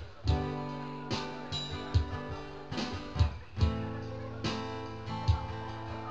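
Live music with no singing: guitar chords strummed over a steady beat, with a strong accent roughly every second.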